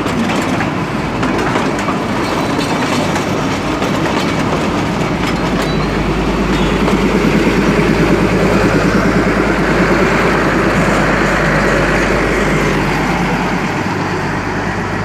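Matheran narrow-gauge mini train running along its track: a steady rumble of wheels with a clickety-clack, growing a little louder about halfway through.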